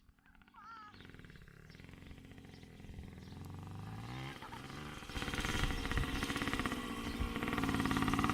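Dirt bike engine revving, its pitch rising and falling under the throttle. It grows steadily louder, with a sharp step up in loudness about five seconds in.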